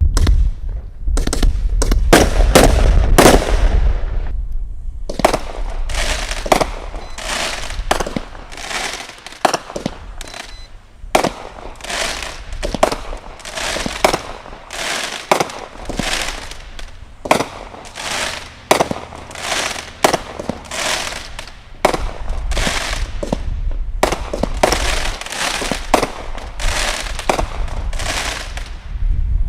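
Consumer firework cake firing: a rapid volley of bangs with a deep rumble, then a steady string of aerial shell bursts about two a second.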